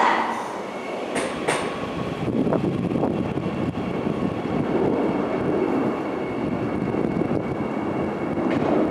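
Seoul Subway Line 9 train running into the station platform: a steady rumble of wheels on rail with a faint steady whine above it, and a couple of sharp clicks about a second in.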